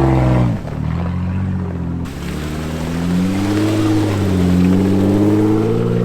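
Jeep engine held at high revs drops sharply to low revs about half a second in, then revs rise and fall twice as it is driven through snow.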